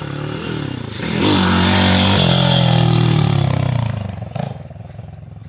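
Pit bike engine revving up as the bike comes past, getting loud for about three seconds and then fading away as it rides off.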